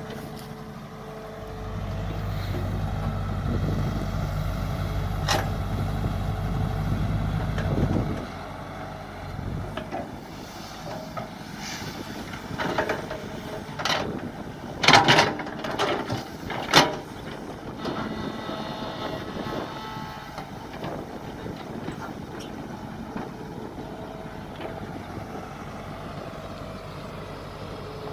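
Mini excavator engine running, working harder and louder for several seconds near the start, then settling lower. Through the middle come a series of sharp knocks and clanks.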